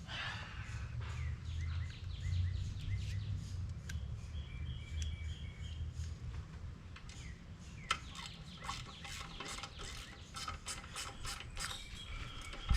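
Ratchet wrench clicking in quick runs from about eight seconds in, tightening the carburetor's mounting nuts. Birds chirp and whistle throughout, over a low steady rumble.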